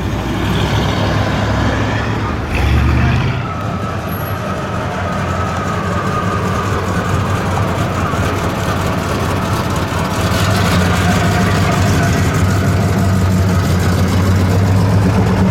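V8 muscle car engines running at low speed, with a short louder engine burst about two and a half seconds in and a closer engine getting louder from about ten seconds in.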